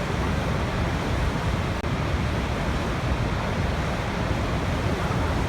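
Waterfall: water falling steadily in a constant, even rush, deepest in the low end.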